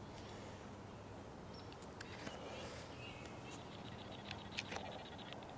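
Faint outdoor morning ambience with a few short, faint bird chirps and calls over a low steady hum.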